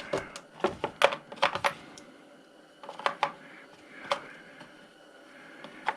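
Metal hand tools clinking and clicking as different sizes are picked out and tried on a nut: a run of sharp clicks in the first two seconds, then a few more around three and four seconds in.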